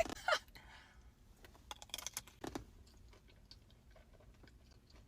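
A person chewing a bite of berry mousse pastry, close to the microphone: a run of small crisp clicks and crunches over the first few seconds, fading to faint soft chewing.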